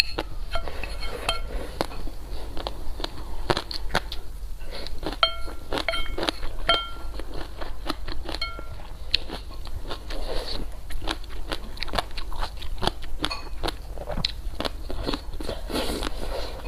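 Close-miked eating: a person biting and chewing, with many quick mouth clicks and smacks and a few short ringing clinks between about five and nine seconds in.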